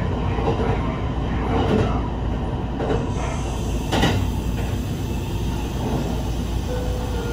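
Kintetsu Urban Liner Next (21020 series) limited express running at speed, heard from on board: a steady rumble of wheels on rail, with one sharp knock about four seconds in. A single steady tone comes in near the end.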